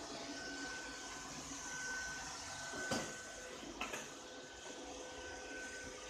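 Ropo Glass robot vacuum cleaner running with a steady whir and a thin high whine, with two short knocks about three and four seconds in.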